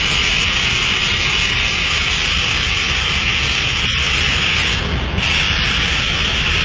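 Scania K360 bus air suspension hissing steadily over a low engine rumble. The hiss breaks off briefly about five seconds in, then resumes.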